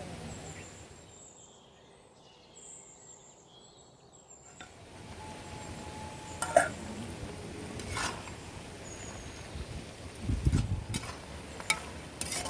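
Metal ladle clinking and scraping in an iron kadai as mutton is stirred with masala powder, with several sharp clinks in the second half. Faint bird chirps in the first few seconds and a low thump near the end.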